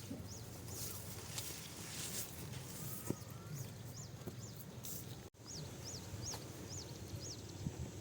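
A bird chirping over and over: short, high chirps that rise and fall, about two a second, over a low steady background hum with a few faint knocks. The sound cuts out for an instant a little past halfway.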